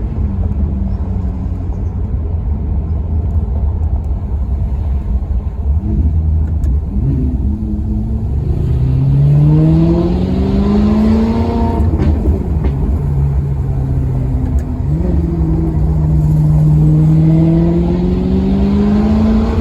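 Maserati Quattroporte Sport GT's V8 running under steady low rumble, then revving up with rising pitch for a few seconds until the pitch falls away suddenly, and climbing again in a second pull near the end.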